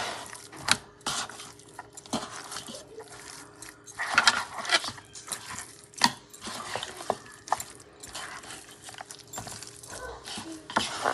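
Kitchen clatter: utensils and dishes clinking and knocking against a pot or pan, with short bursts of a hissing, watery sound.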